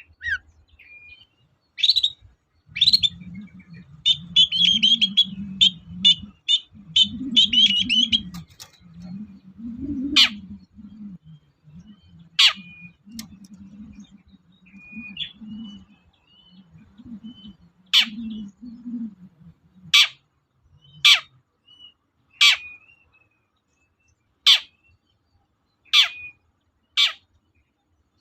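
Long-tailed shrike (cendet) calling: a rapid run of chattering notes in the first several seconds, then single harsh calls sweeping downward, about one every two seconds. A low rumble sits underneath for the first two-thirds.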